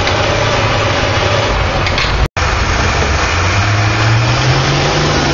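Stock farm tractor's diesel engine running loud at a tractor pull. It cuts out for an instant about two seconds in, then its pitch climbs steadily as the engine pulls.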